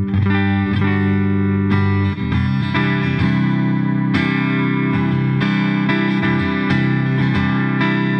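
Clifton Alnico Stratocaster-style electric guitar played through an amplifier: a few quick picked notes, then chords struck again and again at an even pace and left ringing.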